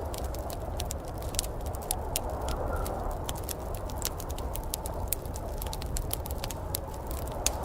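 Wood fire crackling in a fireplace, with frequent irregular sharp pops and snaps over a steady low rushing background.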